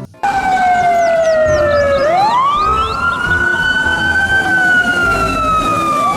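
Fire-engine siren wailing: two overlapping tones glide slowly down, sweep up to a peak and fall again, with a fresh rise starting near the end.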